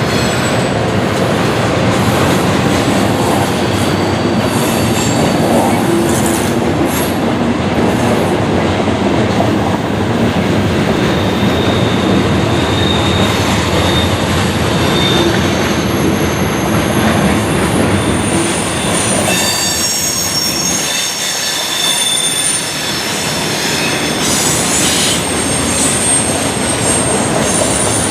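Freight train cars rolling past on steel rails, a loud steady rolling noise with thin high-pitched wheel squeals that grow stronger in the last third, as the deep rumble thins out.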